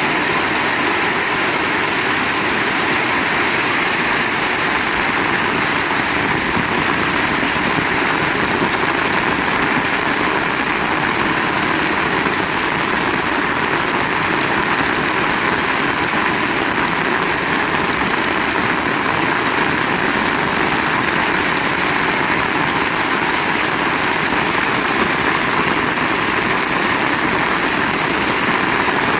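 Heavy rain pouring down in a loud, steady, dense hiss.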